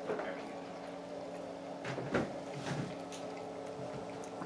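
Chewing and mouth sounds of a man eating a buffalo wing, with a few short smacks near the start and around two seconds in, over a steady low hum.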